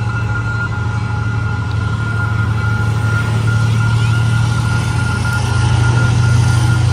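D19E diesel-electric locomotive running, a steady low engine drone with a thin steady whine above it, growing slightly louder over the seconds.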